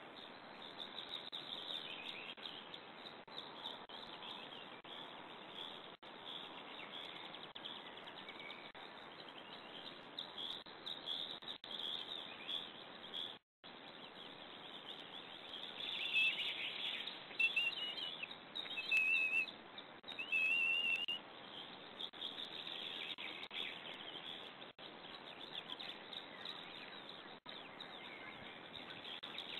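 Small birds chirping and calling over a steady hiss of background noise, with a run of louder, short high-pitched calls about 16 to 21 seconds in, and a momentary cut-out of the sound near the middle.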